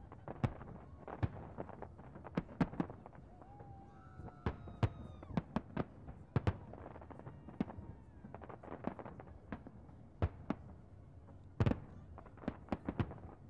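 Fireworks shells bursting in a rapid, irregular string of sharp bangs and cracks, with the loudest bang near the end.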